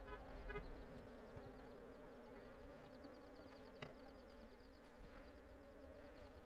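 Faint, steady buzzing of honey bees.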